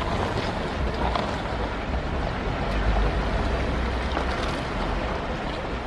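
Vehicle engine idling: a steady low rumble under a broad rushing noise, with a few faint knocks.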